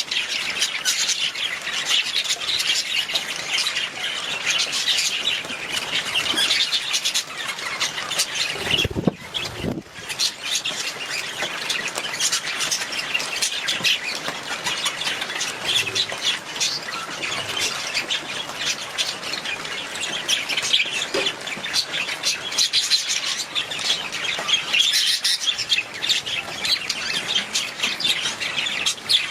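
Budgerigars chattering and chirping over one another nonstop, with a short low thump about nine seconds in.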